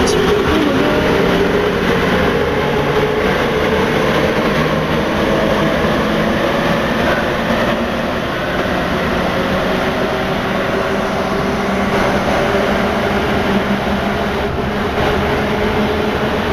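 Rubber-tyred MP89CA metro train running between stations, heard from inside: a steady rumble with a faint motor whine that drifts slightly in pitch.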